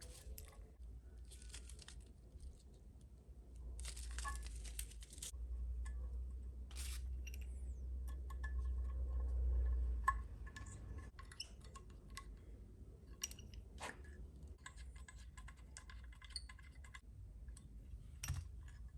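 Small metal and plastic parts being handled: scattered clicks and knocks with short crinkling, rustling noises, and a low rubbing rumble that ends in a sharp knock about ten seconds in.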